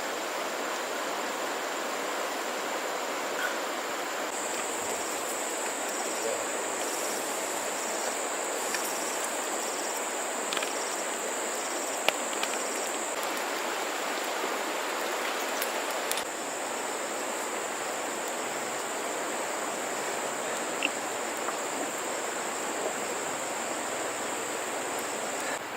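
Outdoor ambience: a steady rushing of flowing water under a continuous high insect trill, which grows louder for several seconds in the first half. A few faint sharp clicks.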